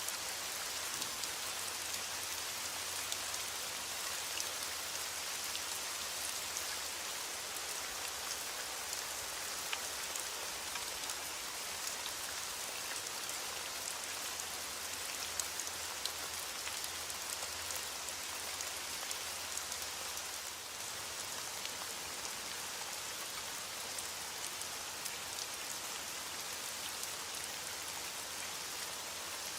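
Steady rain falling on a surface, with the sharp ticks of single drops heard through the hiss.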